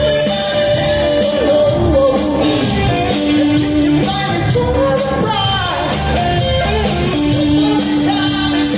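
Live rock band playing with a lead singer: sung lines with long held notes and sliding phrases over a full band and a steady drum beat.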